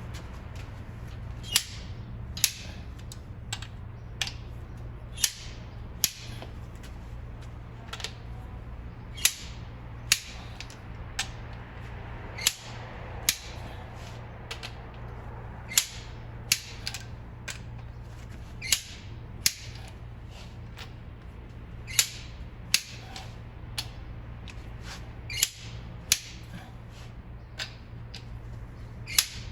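Click-type torque wrench giving single sharp clicks, one every second or two, as cylinder head bolts are tightened to their torque spec, over a steady low hum.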